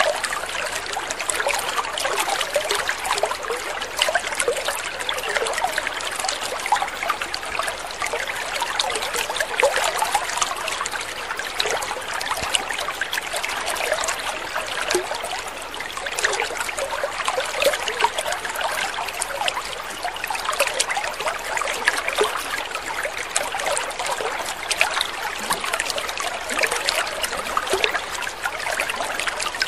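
Water trickling and splashing steadily, a continuous babble of many small droplets falling into water.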